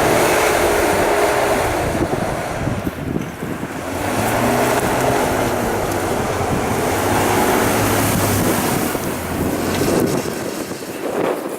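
Off-road vehicle engine revving hard in two long surges, under a loud rushing noise of wind and churned snow or water.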